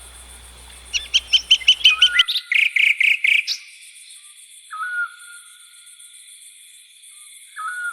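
Songbirds calling: a short whistled call repeats every two to three seconds, and a quick run of loud chirping notes comes about a second in. A steady high-pitched buzz runs underneath.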